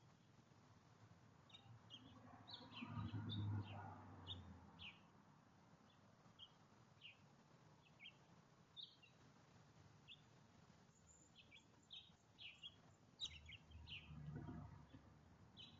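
Small songbirds at a backyard feeder giving many short, scattered chirps, with two brief low rumbles about three seconds in and near the end.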